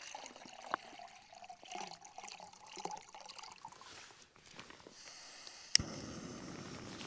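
Water trickling and dripping, with small scattered clicks. About six seconds in comes one sharp click, followed by a steady rush of noise like wind on the microphone.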